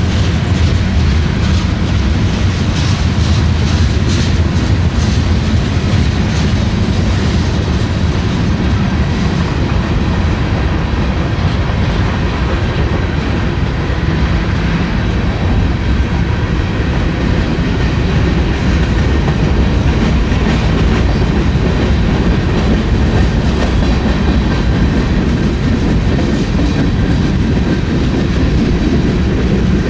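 Freight train cars rolling past at close range: a steady loud rumble with the clicking of wheels over the rail joints.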